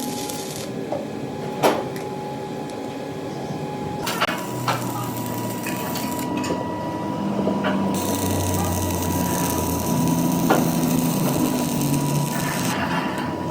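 Workshop machinery running steadily, with a few sharp metallic knocks.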